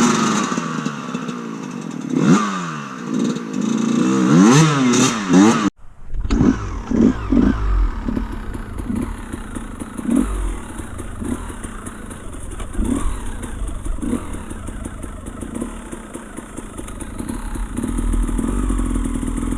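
Dirt bike engine revving up and down over and over for about six seconds, then breaking off abruptly. After that it runs lower and muffled with uneven low thumps, under a steady hiss.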